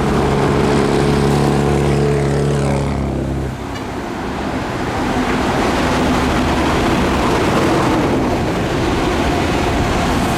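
Diesel engine of heavy earthmoving equipment running with a steady drone; about three and a half seconds in, the drone cuts off abruptly and a rougher, noisier machine sound carries on.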